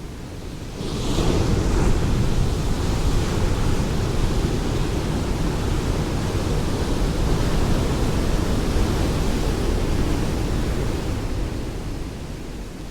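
Ocean waves breaking on a shore: the surf swells suddenly about a second in as a wave breaks, keeps rushing, and eases off near the end as it draws back.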